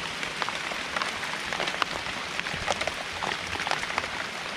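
Rain falling steadily, a constant hiss with many individual raindrops ticking at irregular intervals.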